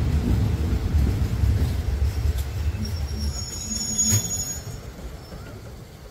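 Passenger train running on the rails, its low rumble fading away. From about three seconds in, the wheels give a brief high-pitched squeal, with a sharp click near the end of it.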